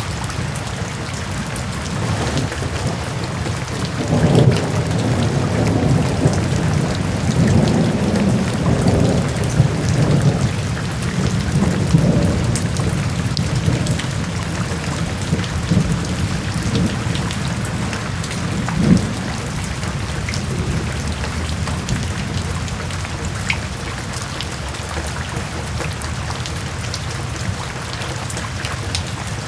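Steady rain hissing and pattering. A low roll of thunder swells about four seconds in and dies away by about halfway, and a shorter rumble comes a little later.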